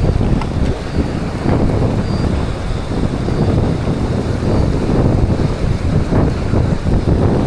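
Strong wind buffeting the microphone in uneven gusts, over the steady rush of a fast stream.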